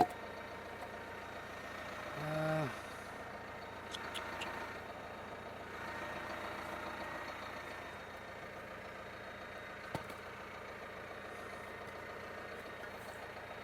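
Engine idling faintly and steadily, with a few light clicks and knocks. There is a brief voice sound about two seconds in.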